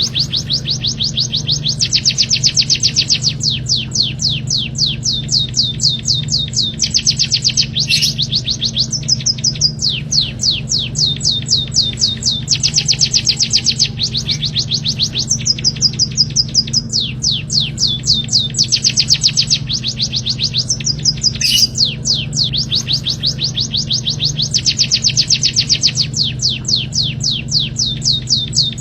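Small songbirds singing continuously in fast, high-pitched trills, each phrase a rapid run of quick downward-sweeping chirps lasting a second or two with brief breaks between, over a steady low hum.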